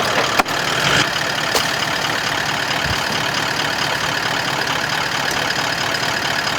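Four-wheel-drive vehicle's engine running steadily, a little louder in the first second, while the vehicle is worked back and forth to get unstuck.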